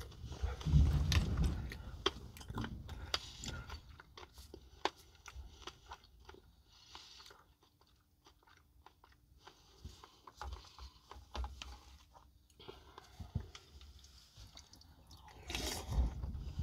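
Close-up chewing of a mouthful of boiled broccoli: wet crunching and biting, loudest about a second in, then softer and more sporadic.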